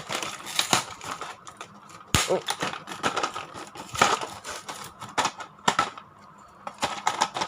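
Plastic and cardboard toy packaging crinkling and clicking in irregular bursts as a motorized toy engine is worked out of its box, with a sharp snap about two seconds in.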